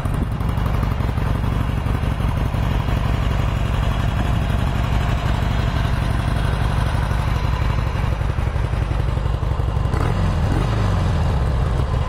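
A 2007 Harley-Davidson Sportster 883 Low's fuel-injected 883 cc V-twin idling steadily through its factory exhaust. Its engine speed wavers briefly about ten seconds in.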